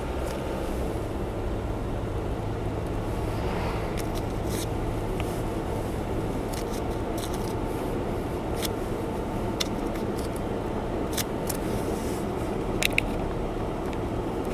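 Honda Zest Spark running on the road, heard from inside the cabin: a steady low engine hum with road noise, and scattered light clicks and rattles.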